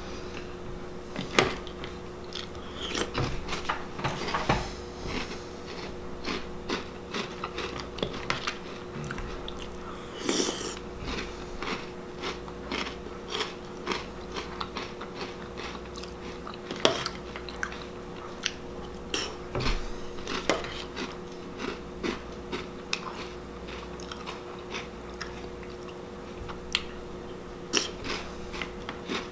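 A person chewing crunchy Reese's Puffs cereal in milk, with a long run of short crunches and a few sharper clicks. A steady low hum runs underneath.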